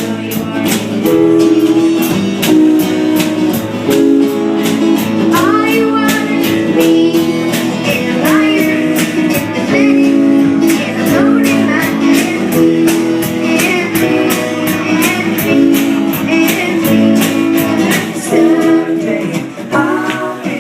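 Live band music: strummed guitar with a steady beat of sharp hits about four a second, and sliding notes over the top.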